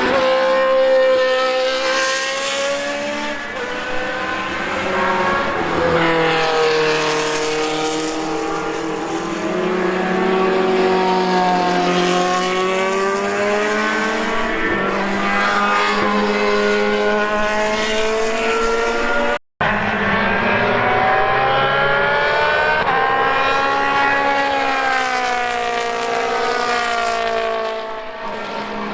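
Racing car engines at high revs passing the trackside microphone, their pitch rising and falling through gear changes and passes. The sound cuts out for an instant about two-thirds of the way through.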